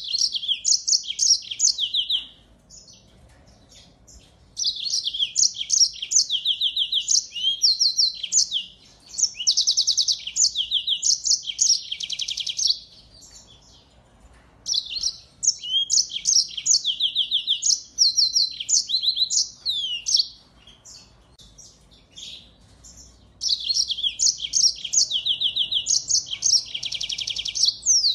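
Finch song: four bouts of fast, varied trills and chirps, each lasting a few seconds, with pauses of one to three seconds between them.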